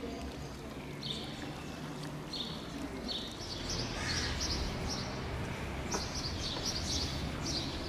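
A small bird chirping: short high notes about once a second, then a quicker run of notes from about halfway through, over a steady low background rumble.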